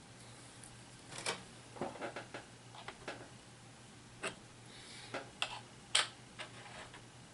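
Irregular light clicks and taps of HeroClix plastic miniatures and their booster packaging being handled and set down, about a dozen in all, the sharpest about six seconds in.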